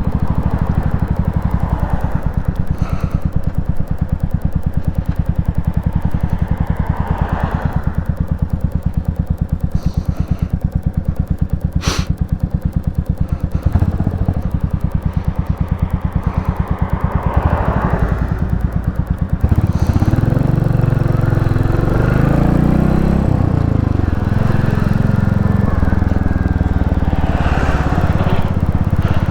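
Royal Enfield Classic 350's single-cylinder engine running at low revs with an even pulse in slow traffic, with one sharp click about twelve seconds in. From about twenty seconds it gets louder, revs rising and falling as the bike pulls away.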